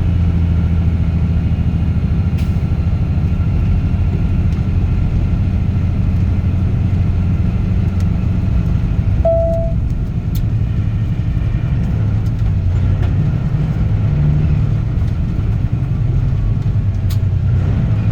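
Straight-piped Caterpillar C15 ACERT inline-six diesel truck engine running steadily with a low rumble while driving. A single short beep sounds about halfway through.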